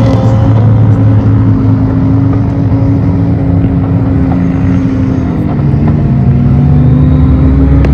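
A motor vehicle's engine revs up, its pitch rising, then runs loud and steady at high revs, with a deeper rumble growing near the end.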